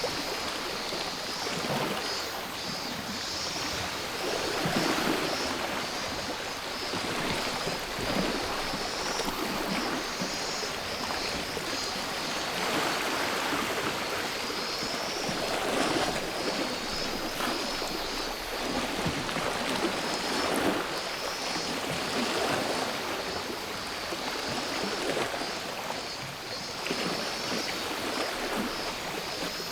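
Sea waves breaking and washing up on the shore in soft swells every few seconds, with a chorus of cicadas buzzing steadily in a high band over them.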